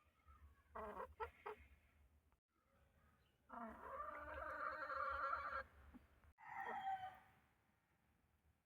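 Aseel chickens calling: a couple of short calls about a second in, then a rooster crowing for about two seconds, followed by a shorter call.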